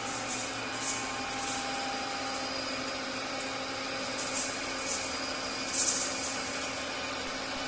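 Okuma all-gear lathe running, its geared headstock turning steadily with a low hum and a high-pitched whine.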